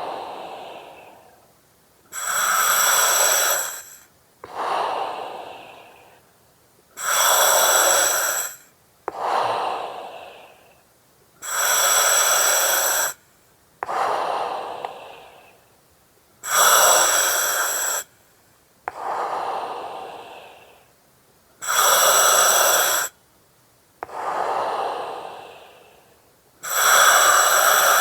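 Breathing through an oxygen mask with its regulator, in a slow, even cycle about every five seconds. Each cycle is a steady hiss of about a second and a half, then a breath that fades away, repeated about six times.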